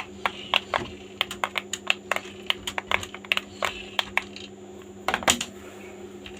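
Irregular sharp clicks and taps of small plastic parts being handled, roughly three a second, with a louder cluster about five seconds in, over a steady low hum.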